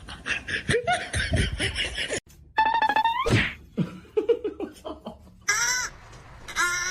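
Laughter in short pulsing bursts, broken by a sudden cut, then a rising pitched call and short high squeaky rising sounds near the end.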